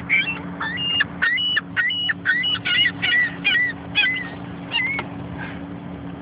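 A flock of gulls calling, about a dozen short squawking calls in quick succession that stop about five seconds in. A steady low hum runs beneath them.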